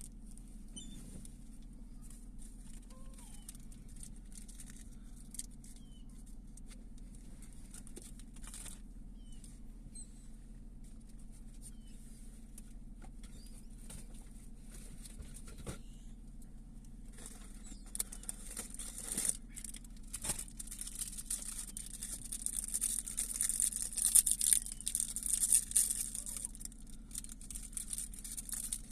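A few faint, short seagull calls over a steady low hum. From about two-thirds of the way in, a dense crackling rustle builds up and becomes the loudest sound.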